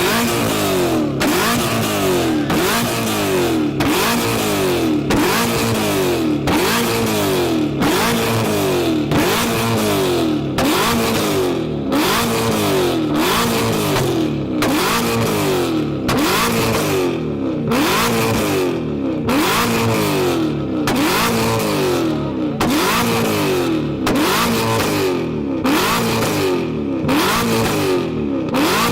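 A car engine revved over and over, about once a second: each rev climbs sharply and then falls away.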